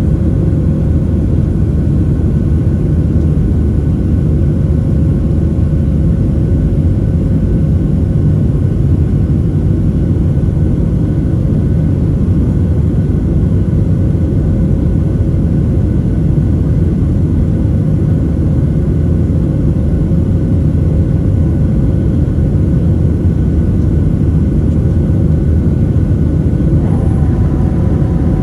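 Boeing 737-700 cabin noise: a steady, loud rumble of CFM56 jet engines and airflow, with a faint constant whine over it. A few new whining tones join near the end.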